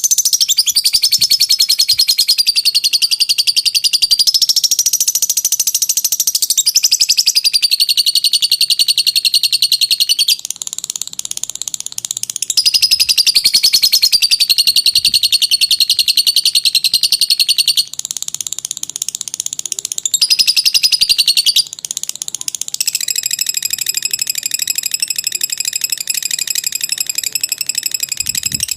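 Lovebird's long chattering song (ngekek panjang): a rapid, high-pitched trill of fast-repeated notes, held for several seconds at a stretch with a few brief breaks.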